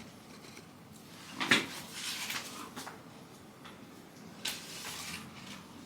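Perfume atomiser sprayed twice, a short hiss about a second and a half in and another at about four and a half seconds, the first with a small knock as the bottle is handled.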